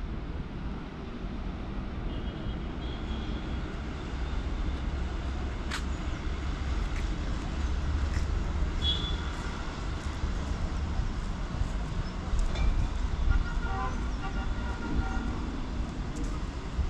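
Low, steady rumble of a passenger train running away into the distance on electrified track. There is a sharp click about six seconds in, and a few brief high tones, with a short horn-like tone near the end.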